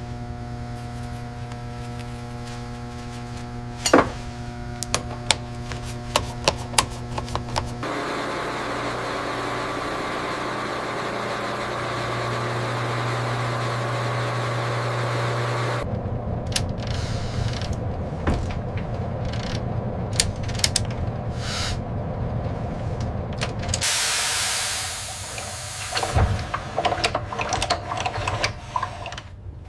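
Workshop tool sounds over a steady low hum: sharp metal knocks and taps. Two stretches of steady rushing noise, one in the middle and a brief louder one near the end.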